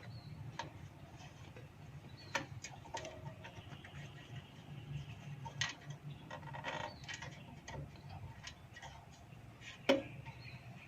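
Scattered light clicks and taps of tools and small parts being handled, with a sharper knock near the end, over a faint low hum.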